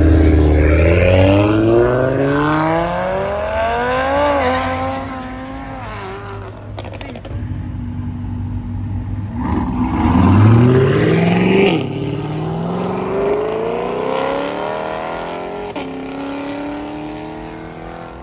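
High-performance cars accelerating hard past, engines revving up through the gears. The pitch climbs until a shift about four seconds in, then a second, louder car comes through about ten seconds in, climbs sharply, cuts at a shift near twelve seconds and climbs again.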